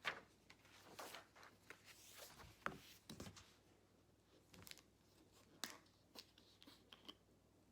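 Faint scratching and tapping of a ballpoint pen on paper, in short irregular strokes with a few sharper ticks, mixed with light paper rustling.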